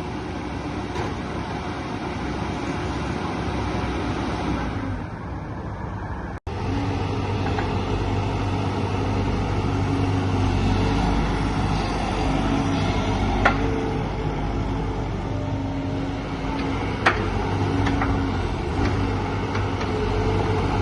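Diesel engine of a 2009 JCB JS145LC tracked excavator running steadily, with a few sharp knocks; the sound cuts off abruptly about six seconds in and resumes.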